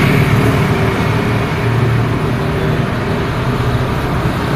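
City road traffic: vehicle engines running with a steady low hum over tyre and road noise, one vehicle passing and fading away just after the start.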